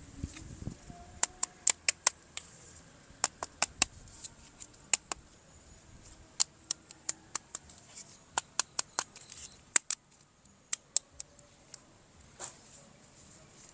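Sharp plastic clicks and snaps from a toy being handled, coming in uneven quick clusters of several clicks with short pauses between them.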